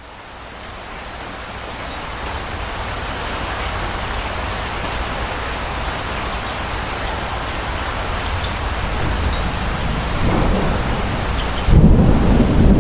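Steady rain falling, fading in at the start, with a scatter of individual drops. Thunder rumbles in near the end, a low rumble that grows and then turns suddenly louder about a second before the end.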